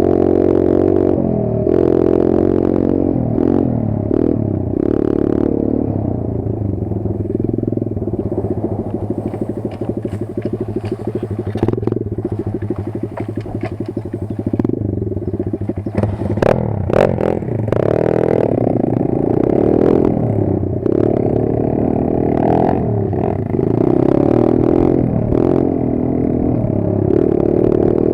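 Kayo 140 pit bike's single-cylinder four-stroke engine under way, its revs rising and falling over and over as the throttle is worked, with scattered clatter and knocks.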